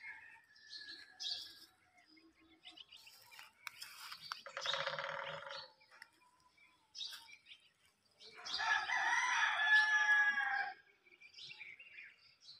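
Birds calling: short chirps throughout, with two louder, longer calls, one about four and a half seconds in and a second of about two seconds near the nine-second mark.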